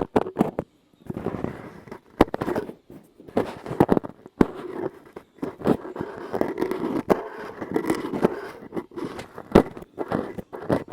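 Close-miked ASMR tapping and crackling: irregular sharp taps and crisp crackles over a rustling texture, with a brief pause about a second in.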